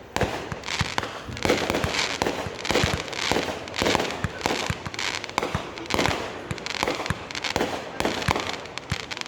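Fireworks going off in a rapid, continuous barrage of bangs and crackles, several reports a second.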